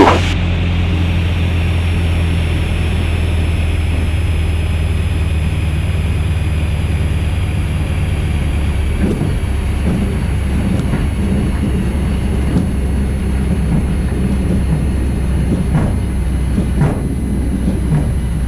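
Van's RV-8 light aircraft's piston engine idling after landing, a steady low hum as the plane rolls out on the runway. There is a sharp click right at the start, and from about nine seconds in, irregular knocks and rattles of the landing gear rolling over the pavement.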